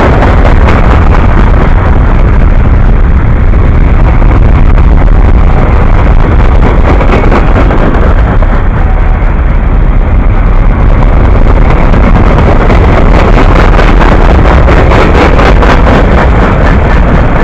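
Freight train of covered hoppers, tank cars and boxcars rolling past close by: a loud, steady rumble with a rapid clatter of steel wheels on the rails.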